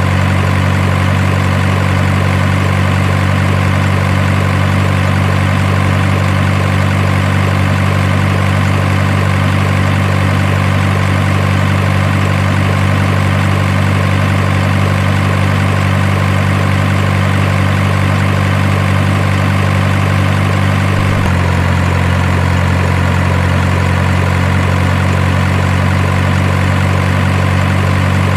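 Steady, even truck-engine idle, low and unchanging, its note shifting slightly lower about two-thirds of the way through.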